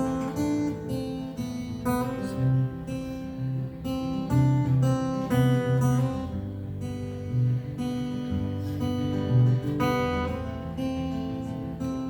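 Acoustic guitar strummed in a steady rhythm of chords: an instrumental break in a live folk song, with no singing.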